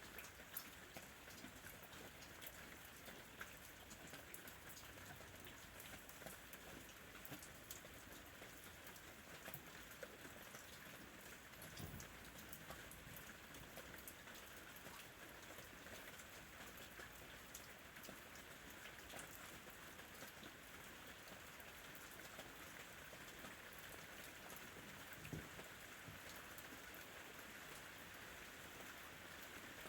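Faint steady rain, with many small drop ticks over an even hiss. A soft low thump twice, about twelve seconds in and again near twenty-five seconds.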